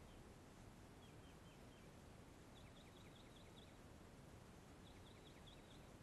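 Faint songbird singing: three short phrases of quick, repeated down-slurred notes, over a steady low outdoor hiss.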